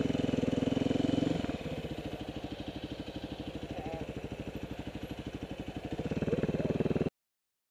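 Supermoto motorcycle engine running with a fast, even beat. It is louder for the first second and a half, then settles lower and picks up again near the end. It cuts off abruptly about seven seconds in.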